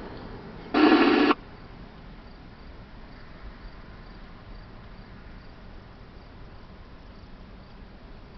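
Crickets chirping steadily, broken about a second in by a loud, buzzy half-second tone burst from a radio scanner.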